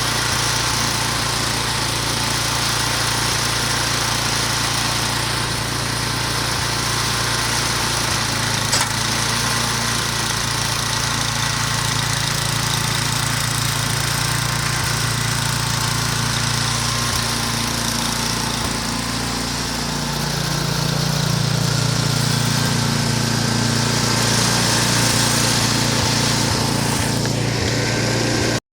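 Snowblower engine running steadily, with its pitch and level rising a little about twenty seconds in; the sound cuts off abruptly near the end.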